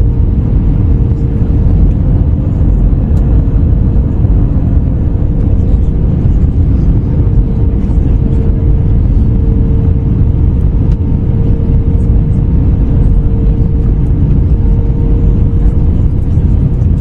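Airbus A321neo cabin noise from a window seat: a loud, steady rumble of engines and airflow with a steady humming tone running through it.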